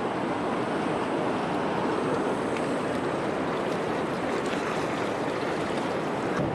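River rapid: whitewater rushing in a steady, unbroken roar.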